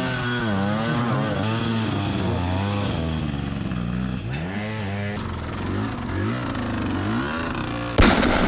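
Dirt bike engines revving, their pitch rising and falling over and over as the throttle is worked on and off. A sudden loud rush of noise breaks in near the end.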